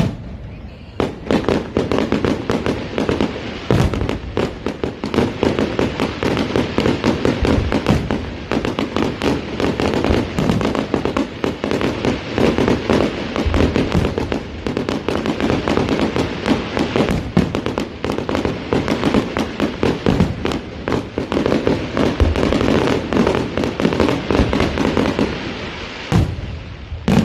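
Fireworks display in a dense barrage: many bangs and crackles a second, running almost without a break and easing off near the end.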